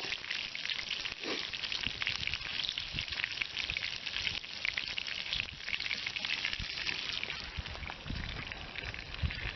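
Food frying in butter in a pan over a twig stove, giving a steady crackling sizzle. A low rumble joins near the end.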